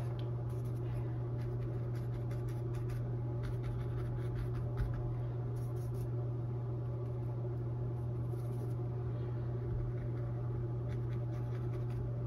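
Dry oval mop brush dabbing and brushing paint onto stretched canvas: soft, scattered scratchy taps in small clusters, one slightly louder near the middle. A steady low electrical hum runs underneath.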